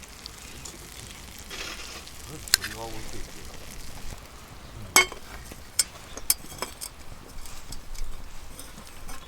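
Food frying and sizzling in a skillet over a campfire, with several sharp clicks and knocks, the loudest about two and a half and five seconds in.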